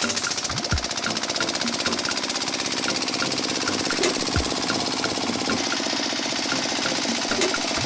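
Fast, steady mechanical rattling from the small electric motor and gearing of a miniature DIY construction machine at work.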